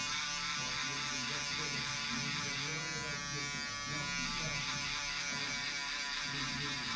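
Wahl Travel Shaver, a small battery foil shaver, running with a steady buzz.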